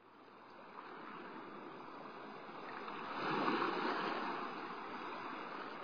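Sea waves washing, fading in from silence and swelling about three seconds in.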